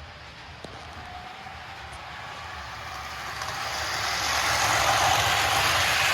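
A 1957 Kusan Atomic Train toy locomotive's electric motor whirring and its wheels rolling on sectional track as it runs laps pulling cars. The sound swells as the train comes close about four seconds in, with a single click under a second in.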